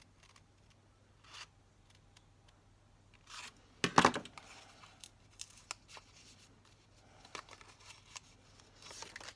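Craft knife cutting through paper on a cutting mat: scattered short scratchy cuts, with one louder knock about four seconds in.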